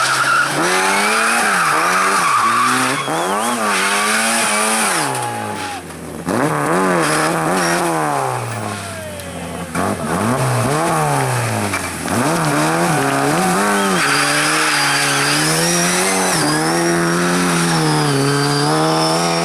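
Competition car engine revving hard and dropping back again and again as it shifts through the gears and brakes for corners, with tyres squealing in the last few seconds.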